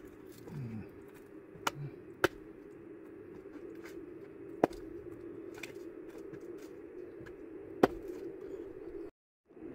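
Wood bonfire crackling, with a steady low rush and a few sharp, scattered pops. The sound drops out briefly near the end.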